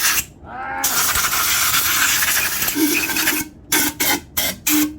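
Compressed-air blow gun hissing as air is blown through the engine to drive out moisture from pressure washing. It runs steadily for about three seconds, then comes in short bursts near the end with a slight whistle.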